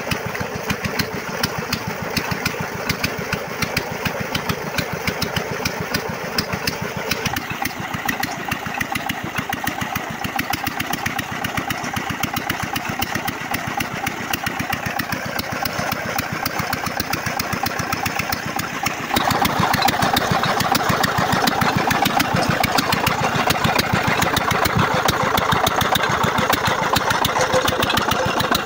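Old Petter-type diesel engine driving a water pump, running steadily with close, even firing strokes. About nineteen seconds in it gets louder and fuller and stays that way.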